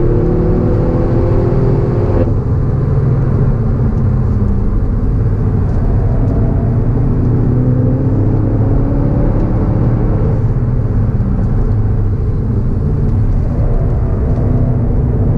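VW Golf GTI Clubsport S's turbocharged 2.0-litre four-cylinder engine under hard track driving. The revs climb, cut off sharply about two seconds in at a shift or lift, sag, then climb again twice, over a heavy low rumble.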